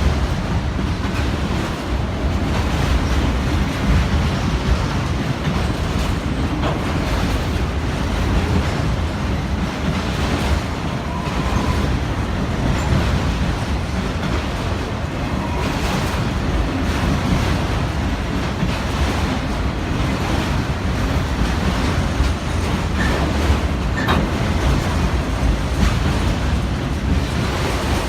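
A train running steadily on the rails, a continuous low rumble with no let-up.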